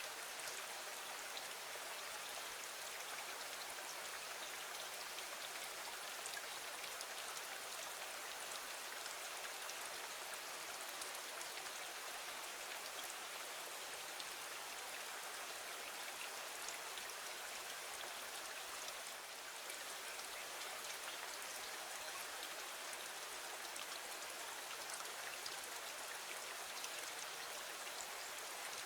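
Steady rain falling against a window: an even hiss with many faint ticks of single drops.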